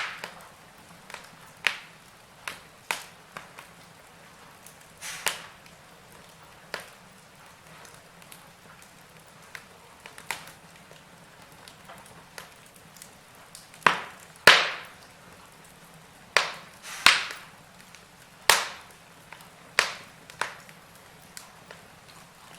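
Wood fire burning in a fireplace, crackling with irregular sharp pops, a few snaps louder than the rest near the middle and again later on.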